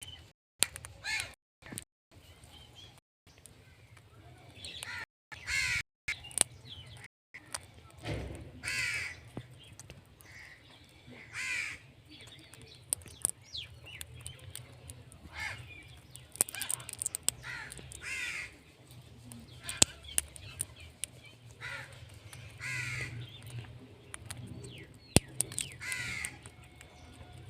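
Green parrot giving repeated harsh squawking calls a few seconds apart, with sharp clicks in between.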